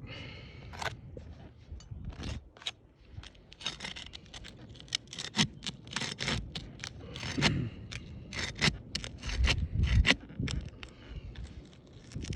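Brittle asphalt roofing shingles being pried up, a run of irregular sharp crackles, scrapes and tears as the sealed tabs break loose, with a few dull knocks. The shingles are too brittle to lift cleanly and tear as they are worked.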